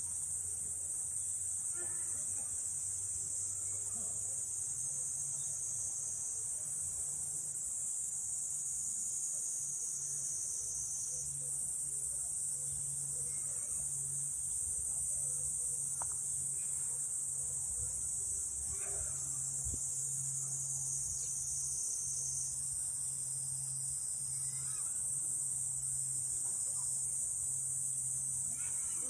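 A steady, high-pitched chorus of insects that goes on without a break, with a faint low hum beneath it.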